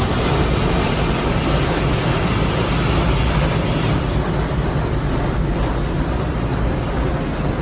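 Car wash equipment running: a steady, loud rushing noise with a low rumble underneath.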